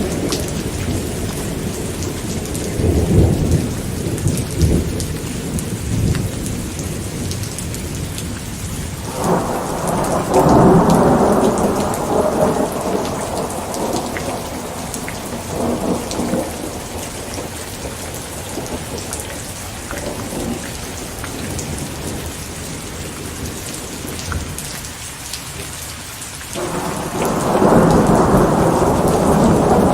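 Steady rain falling, with thunder rumbling over it: a rumble a few seconds in, a longer, louder peal from about nine seconds in, and another starting near the end.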